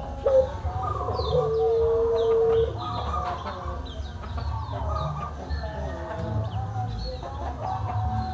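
A rooster crowing, with one long held note about a second in, among clucking chickens, while small white-eyes (pleci) give many short, high chirps.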